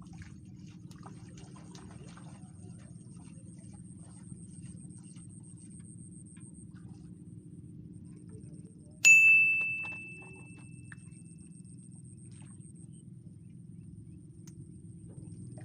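A single clear ding about nine seconds in that rings and fades over a second or so, over a steady low rumble and a thin, constant high-pitched whine.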